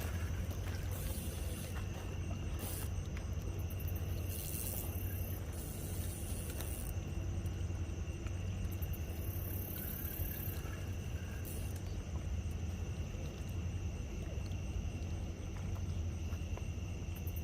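Night outdoor ambience: a steady low rumble under a continuous high insect trill on two steady pitches, with brief hissy rustles now and then.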